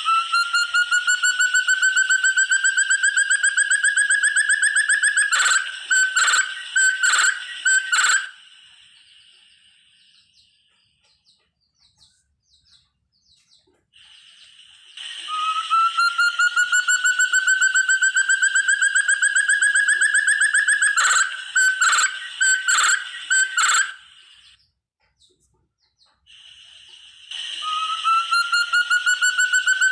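Call of the forest partridge known locally as terung or puyuh hutan: a long, slowly rising trill of rapid whistled pulses that ends in about five short separate notes, followed by a pause of several seconds. The phrase comes twice, and a third begins near the end.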